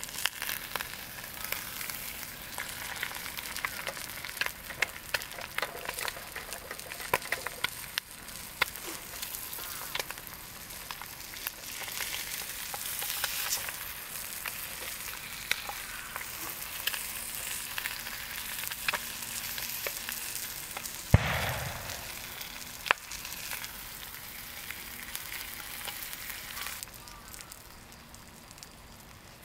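Food frying in a pan: a steady sizzle with many small pops. A single louder knock comes about 21 seconds in.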